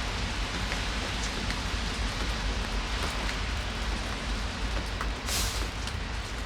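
Steady rain falling, with individual drops ticking here and there and a short, louder hiss about five seconds in.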